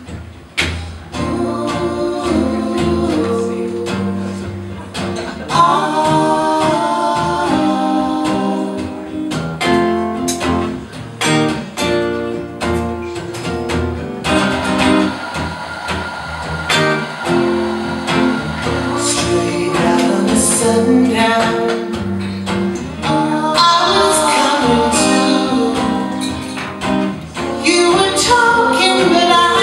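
Live acoustic folk music with plucked and strummed acoustic guitars and a melodic line over them, playing the song's introduction.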